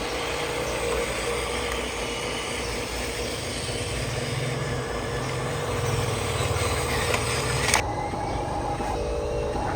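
Radio-controlled trucks running, giving a steady, low engine-like drone. A sharp click comes near the end, after which the high hiss drops away.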